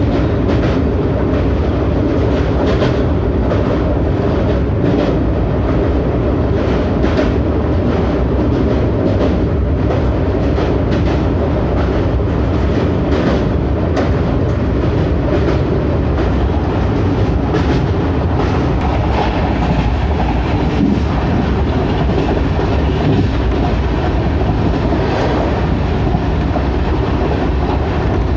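Duronto Express passenger train running along the track: a steady rolling rumble with irregular wheel clicks over the rail joints.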